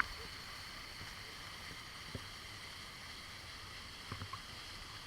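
Steady rush of water from the waterfall, with a few faint knocks and splashes about two and four seconds in.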